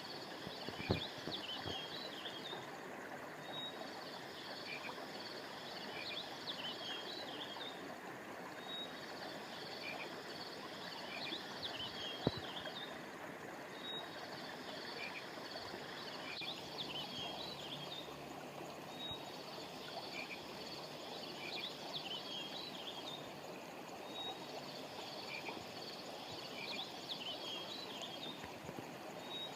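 A river or stream flowing steadily, with high-pitched chirping calls over it that repeat in the same pattern about every five seconds. There are two brief clicks, about a second in and again near the middle.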